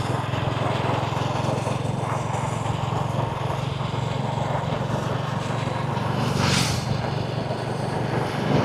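A small engine running steadily with a low, evenly pulsing hum under a wash of noise, with a brief hiss about six and a half seconds in.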